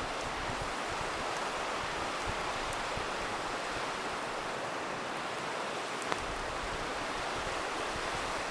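River rushing steadily, with a few sparse crackles from a wood campfire and one sharper pop about six seconds in.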